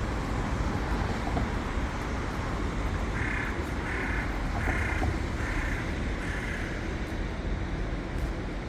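Steady city traffic rumble, with a crow cawing five times in quick succession from about three seconds in.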